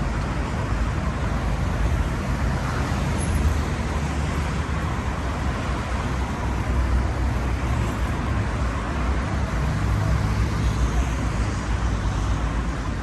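Continuous road traffic noise: a steady low rumble with hiss from passing cars.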